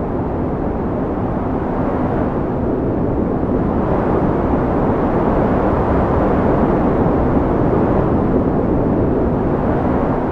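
Strong wind blowing in a steady low rush that swells and eases slightly, strongest around the middle.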